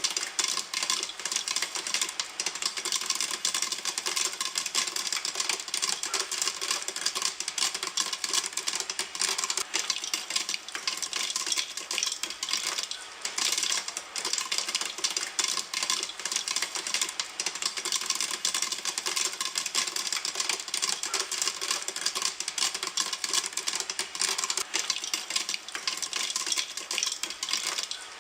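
Popcorn kernels popping in a pan in a fast, dense, continuous crackle of sharp pops.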